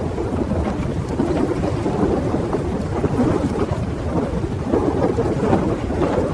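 Steady, dense storm noise, heavy and rumbling in the low end, with no pitch or rhythm.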